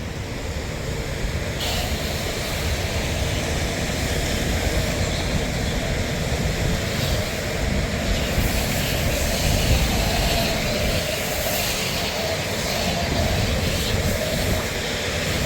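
Jet-wash lance spraying onto a car. The hiss cuts in suddenly about a second and a half in and runs steadily over a low rumble.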